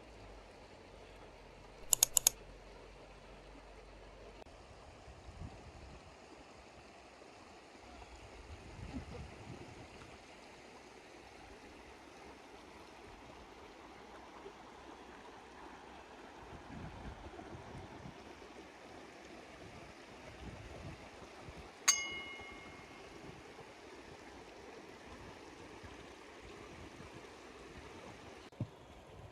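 River water flowing faintly and steadily. About two seconds in comes a quick run of sharp clicks, and about 22 seconds in a single metallic clink with a short ring.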